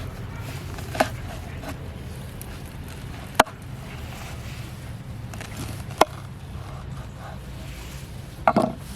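Four short, sharp knocks, a couple of seconds apart, over a steady low rumble; the last is a quick double knock near the end.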